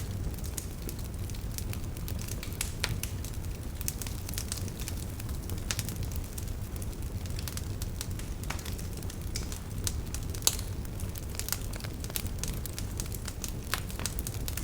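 Campfire crackling and popping in irregular sharp snaps, with a steady low rumble of river water underneath.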